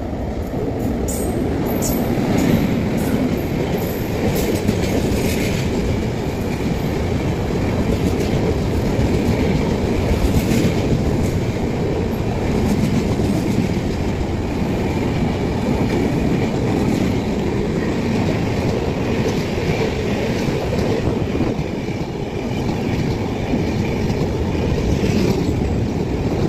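Humsafar Express passenger train running through a station at speed: a loud, steady rush of wheels on rail with a clatter of clicks over the rail joints. It grows louder over the first couple of seconds as the train arrives, then holds as the coaches stream past.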